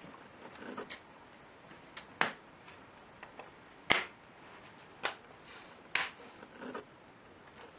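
Irregular sharp clicks and taps of small plastic and metal laptop parts and tools being handled during disassembly, the loudest about four seconds in.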